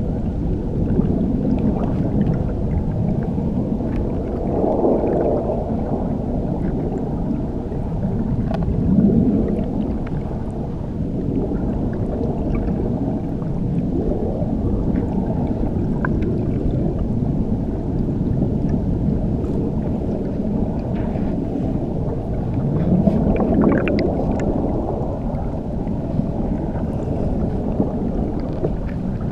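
Muffled underwater rush of falling water, heard from under a waterfall: a dense low rumble with slow swells and a few faint ticks and clicks above it.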